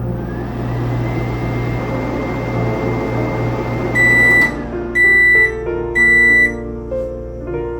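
Microwave oven running with a steady hum, then stopping about four and a half seconds in. Three beeps, about a second apart, signal that the heating cycle is finished.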